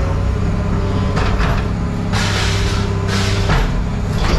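A vehicle engine running steadily at a low, even pitch, with three short bursts of hissing or rattling noise about a second apart and another near the end.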